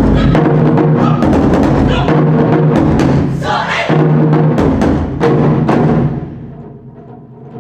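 Japanese taiko drums played in a loud, dense rhythm over steady held musical tones. The drumming falls away about six seconds in, leaving quieter music.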